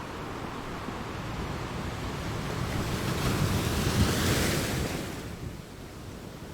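Ocean surf: a wave builds, breaks with a rushing hiss about four seconds in, then washes out and fades.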